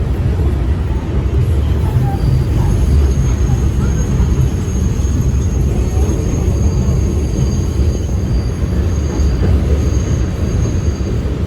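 New York City subway train in motion: the steady low rumble of the car running on the rails, with a faint thin high squeal that comes in about three seconds in and holds until near the end.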